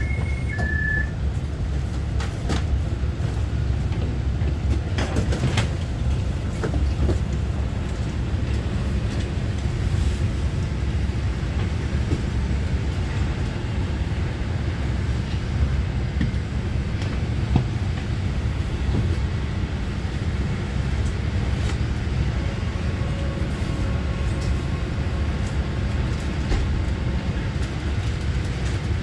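Taiwan Railway EMU900-series electric commuter train (set EMU923) running, heard from on board as a steady low rumble with scattered clicks and knocks from the wheels and car body. An alternating two-tone beeping chime ends about a second in.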